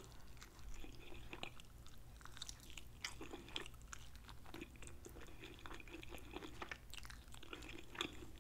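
A person biting and gnawing meat off a jerk turkey wing bone and chewing it, heard as faint, irregular small clicks and chewing noises.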